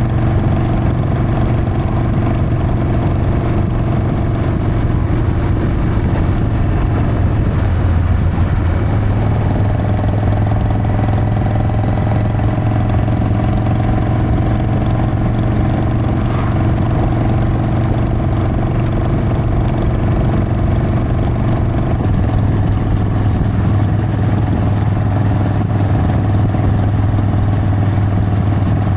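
Harley-Davidson Sportster's V-twin engine running steadily under way. Its note rises slightly partway through.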